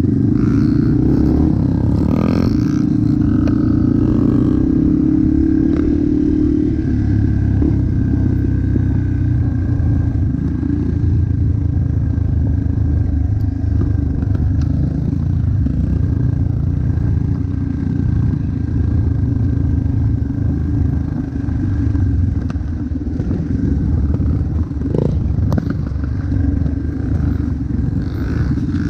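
Motocross dirt bike engine running continuously, its pitch rising over the first several seconds as it speeds up, then holding steady.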